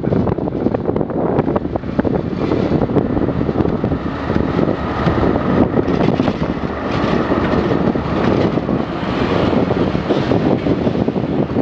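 Two KiwiRail DL-class diesel-electric locomotives passing close at speed with their engines running, then loaded container wagons rolling by with steady wheel-on-rail noise.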